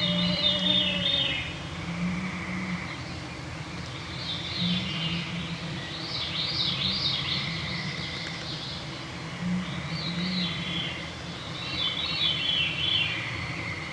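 Songbirds singing in an evening chorus: about five separate phrases of rapid, cascading notes a few seconds apart, over a steady drone of mosquitoes.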